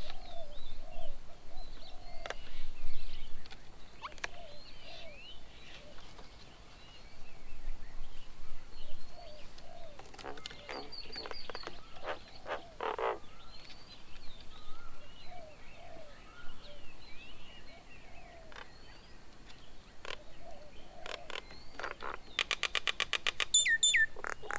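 Several birds calling and chattering: short chirps and whistles throughout, a burst of harsher notes about ten seconds in, and a fast rattling series near the end.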